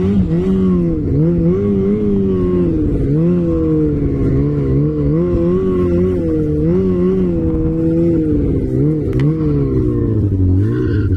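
An off-road vehicle engine under load, revving up and down again and again as it is driven over rough ground.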